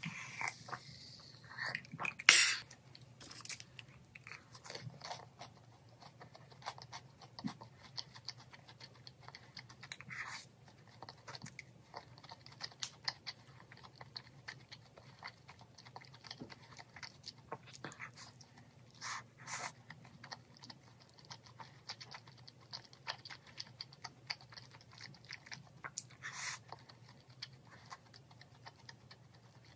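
Close-miked chewing and crunching of crispy fried chicken: many small crackles and wet mouth sounds. There is a sharp knock about two seconds in, and a few short louder rustles later on.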